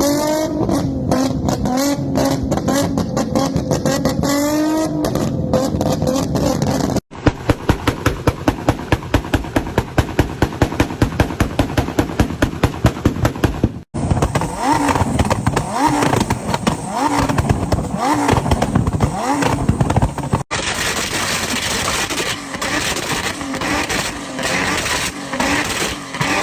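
Modified car engines revving hard across four short clips. An engine is revved up and down, then an exhaust cracks out a fast run of sharp pops and bangs, about four a second. It is followed by repeated throttle blips rising and falling in pitch, and an engine held at high revs.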